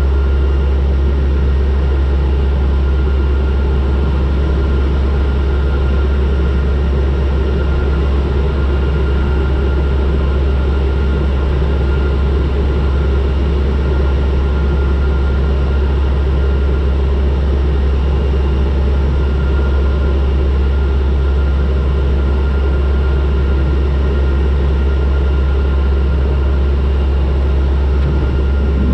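Turboprop airliner's engines and propellers running in descent: a steady, unchanging low drone with a faint steady whine above it.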